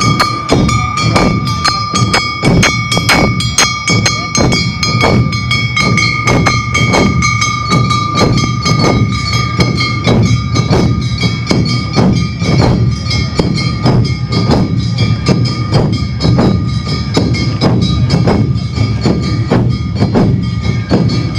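Awa Odori festival band (narimono) playing: drums and a metal kane bell striking a driving beat about twice a second, over steady high held notes, likely a shinobue flute.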